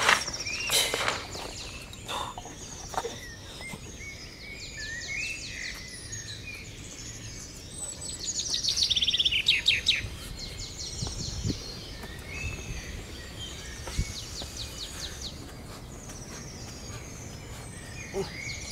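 Several wild birds calling: rapid high trills and short chirps that keep coming, busiest and loudest about eight to ten seconds in. A few brief rustling or scraping sounds come near the start.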